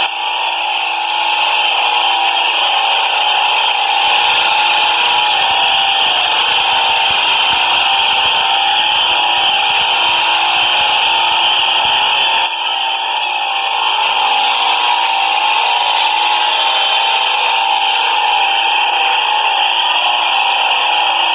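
A train running: a loud, steady whine with a high hiss, changing abruptly about four and twelve seconds in.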